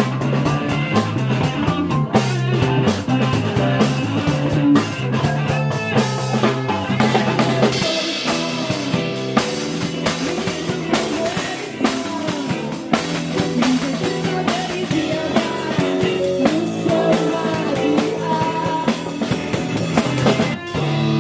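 Live rock band playing: electric guitar over bass guitar and a drum kit, steady and loud.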